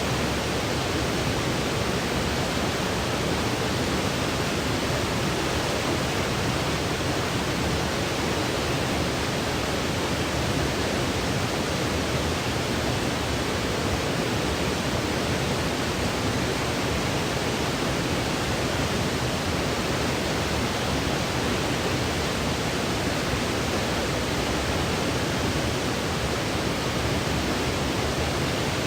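Continuous sleep-aid white noise: an even, unchanging hiss with no breaks or events.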